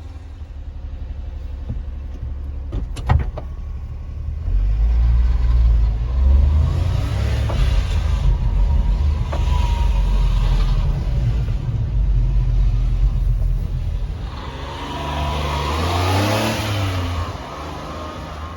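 Honda Acty mini truck's small three-cylinder engine running and revving, its pitch rising and stepping through changes, with a sharp click about three seconds in and a louder surge of engine and road noise near the end.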